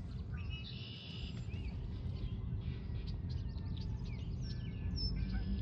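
Barn swallow twittering: a run of short chirps and brief warbled notes, over a steady low rumble.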